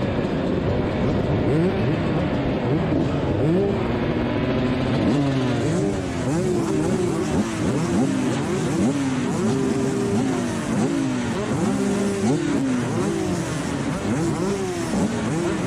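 TM 300ES two-stroke motocross bike engine accelerating hard through the gears. The pitch climbs and drops back at each shift, about once a second.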